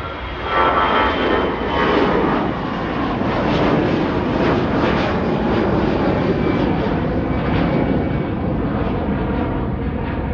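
A departing airliner's engines at takeoff power, a loud roar that swells about half a second in, with whining tones sliding down in pitch as it passes.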